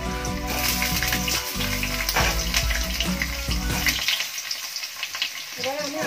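Whole boiled potatoes sizzling and crackling in hot oil in a metal kadai. Steady low background music runs under it and stops abruptly about four seconds in.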